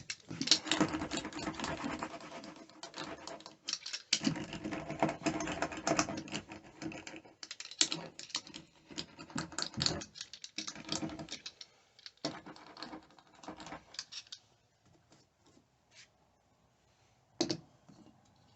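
Dense, rapid clicking and crackling for about fourteen seconds, then a few scattered clicks and one sharp click near the end.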